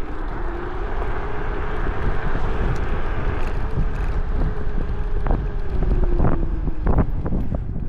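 Wind buffeting the microphone while riding an electric scooter, with a faint motor whine that rises a little in pitch and then falls back. A few sharp knocks come in the second half.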